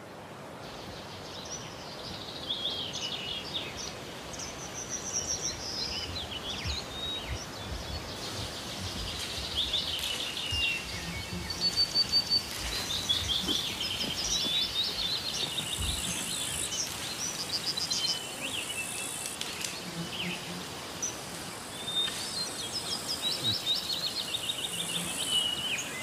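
Several songbirds singing and calling over a steady outdoor background: many quick chirps and short trills overlapping throughout.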